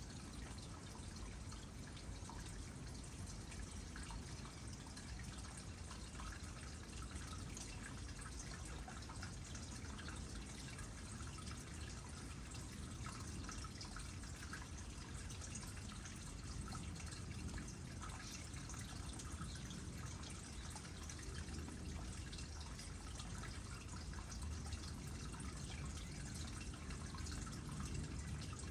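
Water trickling into a small pond, with a steady patter of small drips and splashes.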